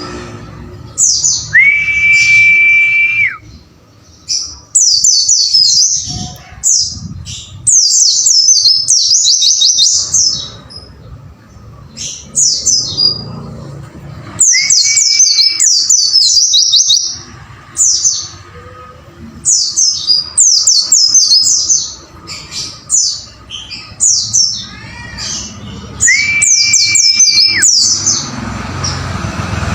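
White-eye (pleci) song: bursts of fast, high, falling chirps about a second or two long, repeated with short gaps. Three times, a long, steady, flat whistle at a lower pitch comes in among them.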